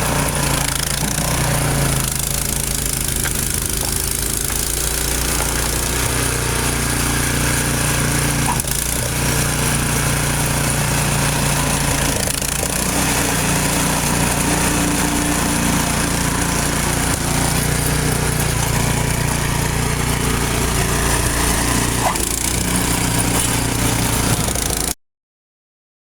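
Gas-powered leaf blower's small engine running steadily, its pitch shifting a few times as the throttle changes. It cuts off abruptly near the end.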